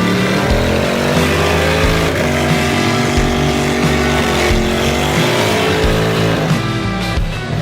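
Car engine revving hard. Its pitch climbs early, holds high, dips about four seconds in, climbs again and falls away near the end.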